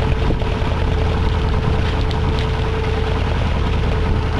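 Inboard engine of a Westerly Centaur sailing yacht running steadily in gear under way: a deep, even rumble with a steady hum over it.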